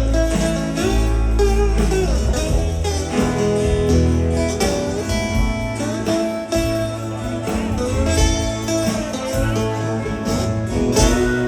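Rock band playing an instrumental passage between verses of a slow blues-rock song: guitars over bass and drums, with no singing.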